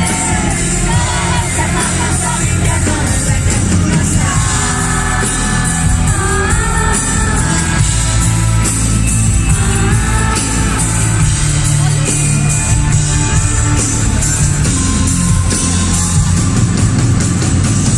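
Pop-rock band playing live in a large hall, with steady bass and drums and a singing voice weaving over the music.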